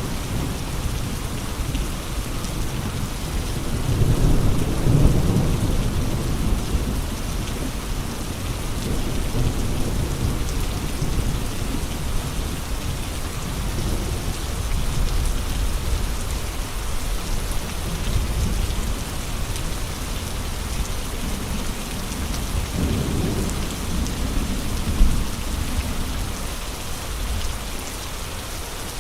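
Steady heavy rain with gusting wind, deep rumbling swells rising about four seconds in and again near the end.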